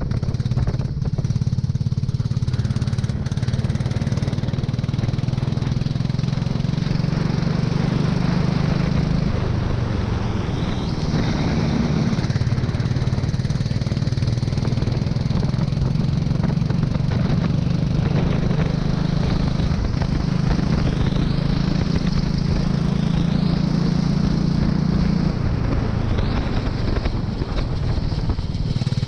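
Go-kart engine running hard on track, its note held steady and dipping in pitch about a third of the way in and again near the end as it comes off and back on the throttle.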